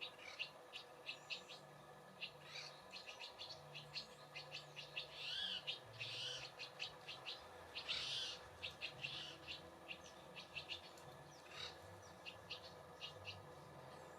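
Wild songbirds calling around a feeder: a steady run of short, high chips and twitters, with a few longer, harsher calls in the middle.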